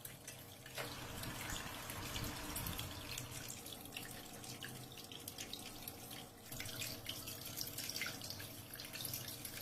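Homemade waterfall fountain running: water trickling and splashing steadily with many small drips, fairly quiet.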